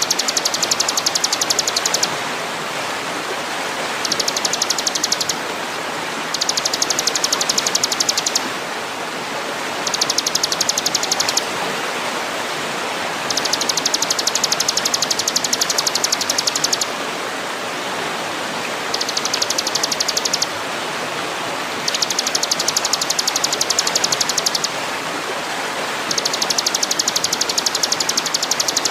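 A fast, high, ticking trill that comes in bursts of one to three seconds, about eight times, over a steady rushing hiss like running water, as played in songbird training (masteran) recordings.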